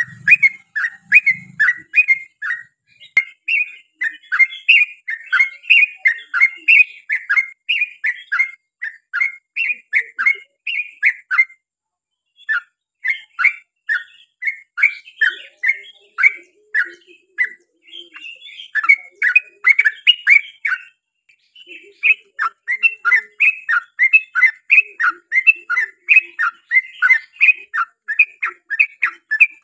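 Yellow-vented bulbul (trucukan) singing long fast runs of short bubbly chirps, about four notes a second, with brief pauses about twelve and twenty-one seconds in.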